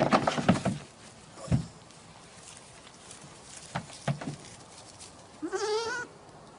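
Knocks and clattering thumps in the first second and again around four seconds in. Then near the end comes a single bleat about half a second long, its pitch wavering quickly.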